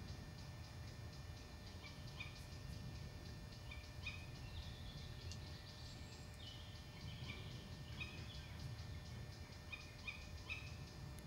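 Short bird calls, about a dozen at irregular intervals, some in quick pairs, each a brief note falling in pitch, over a low rumble.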